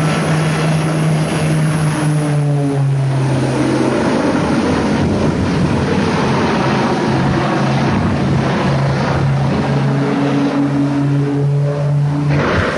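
A motor running steadily under a dense rushing noise. Its pitch drops a little about two and a half seconds in and comes back up near the ten-second mark.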